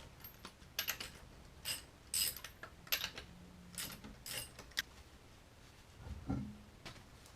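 Irregular metallic clicks and clinks of hand tools working lug nuts off a car wheel, with a dull thump about six seconds in.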